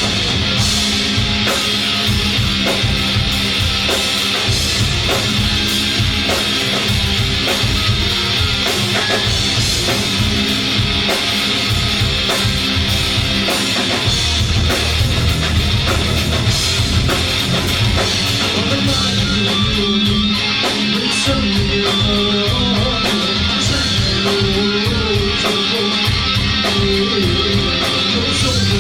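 Rock band playing live: electric guitar and drum kit with bass, a steady beat throughout.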